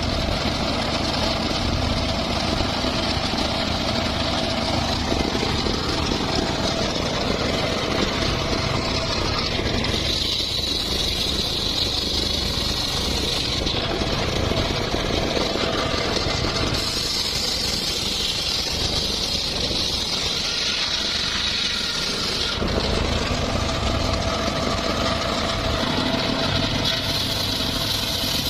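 Engine-driven homemade circular saw running steadily on mahogany timber. Its tone shifts every few seconds as the load on the blade changes.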